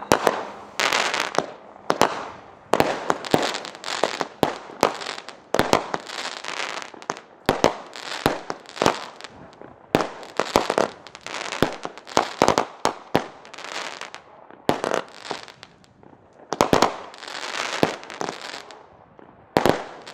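A 200-gram, 25-shot consumer fireworks cake firing its shots in quick succession: sharp launches and bursting reports, several a second, with hissing and crackling sparks between them.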